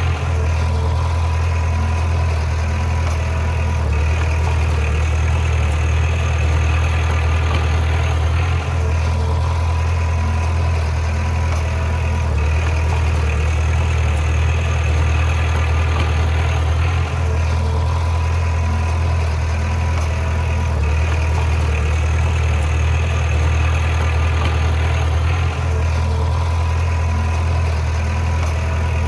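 Bulldozer's heavy diesel engine running steadily with a deep hum, its sound dipping briefly about every eight and a half seconds.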